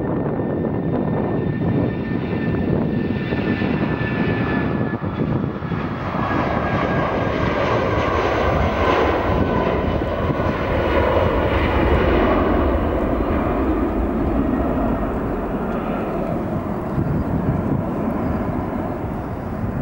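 Airbus A319's twin IAE V2500 jet engines at takeoff thrust: a loud, steady rumble with whining tones. It swells to its loudest about twelve seconds in, then eases off.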